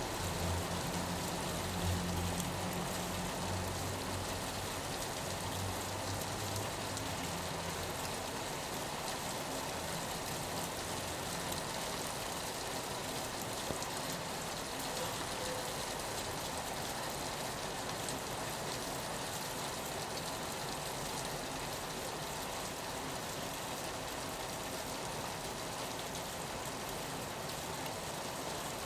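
Steady rain falling on a window, an even hiss. A low hum sits under it for the first several seconds and then fades out.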